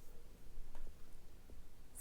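Quiet room tone: faint low hum with a few soft clicks.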